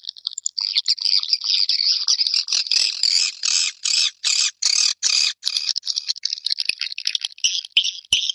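Swiftlets calling: a dense high twittering, then from about two and a half seconds a run of louder chirps, about three a second, and near the end a quicker series of short, high chirps. It is the kind of swiftlet call played to lure swiftlets.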